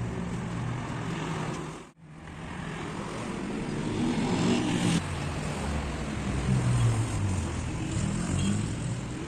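A motorcycle engine running, its pitch rising and falling as the throttle varies. The sound drops out briefly about two seconds in.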